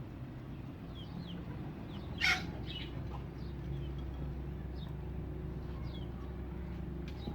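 Backyard chickens and small birds calling: short high chirps every second or so and one brief loud squawk a couple of seconds in, over a steady low hum.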